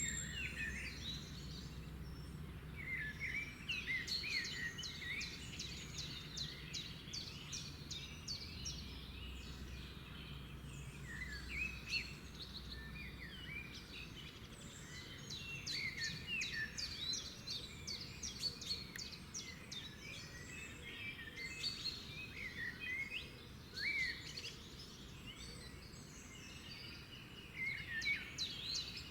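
Several songbirds chirping and trilling at once, many short overlapping calls with no pauses, over a faint low rumble that fades out about halfway through.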